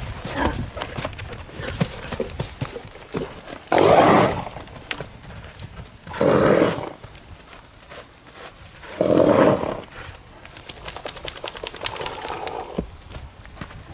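Thoroughbred stallion moving about, hooves clopping and stamping, with three loud half-second bursts of breathy noise about 4, 6½ and 9 seconds in.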